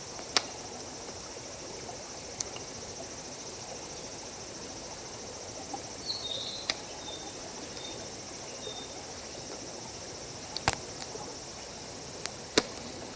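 Wood campfire crackling, with a handful of sharp pops spread out over the seconds, over a steady high-pitched insect trill.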